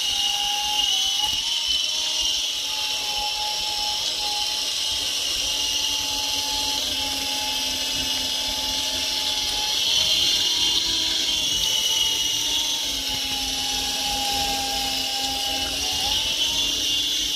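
Small electric RC helicopter (a cheap 3.5-channel alloy model) hovering, its motors and rotors making a steady high whine, the pitch dipping briefly a few times as it is manoeuvred.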